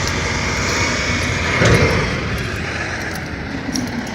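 A motor vehicle's engine running steadily, swelling briefly about one and a half seconds in.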